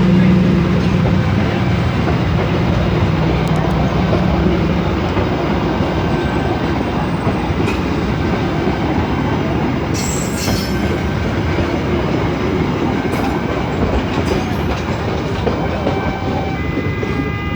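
Train rolling past close by: a steady rumble of wheels on the rails, with a low engine hum in the first few seconds and a brief high squeal about ten seconds in.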